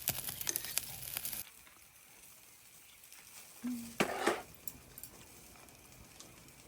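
Meat sizzling on a grill over a crackling wood fire, with sharp pops. The sizzle cuts off abruptly about a second and a half in, leaving a faint hiss with scattered clicks and a short burst of noise about four seconds in.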